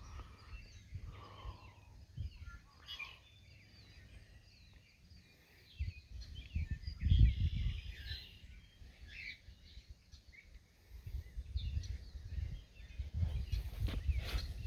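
Birds chirping on and off, with gusts of wind rumbling on the microphone about six seconds in and again in the last few seconds.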